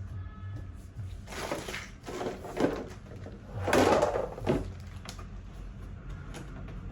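Handling noise from plastic high-chair parts being fitted together: two spells of scraping and rattling with small clicks, the louder about four seconds in.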